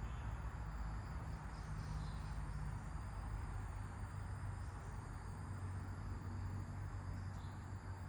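Nature ambience: a steady high insect buzz over a low wind rumble, with a couple of faint bird chirps, one about two seconds in and one near the end.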